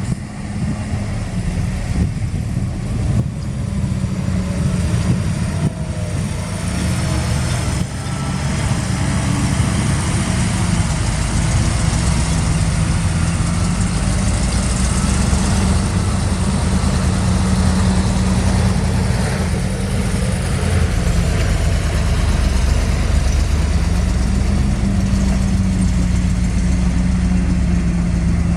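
Heavy construction machine's diesel engine running steadily, with a few knocks in the first several seconds.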